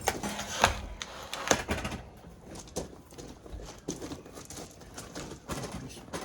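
Knocks, clunks and scraping as a drained tank-type water heater is tipped down and handled, with the loudest knocks about half a second and a second and a half in.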